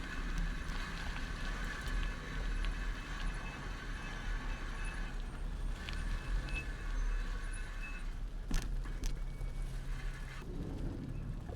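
Bicycle riding along a city street, heard through a handlebar-mounted camera: a steady low rumble of the wheels and the bars, mixed with street traffic. There is a sharp click about eight and a half seconds in.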